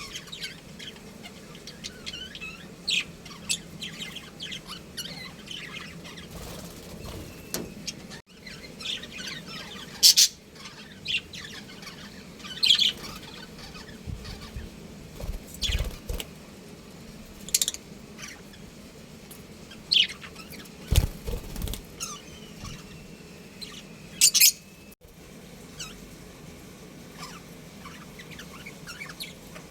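Budgerigars chirping in short, scattered calls, a few of them louder and sharper, with a couple of brief low thumps about halfway through.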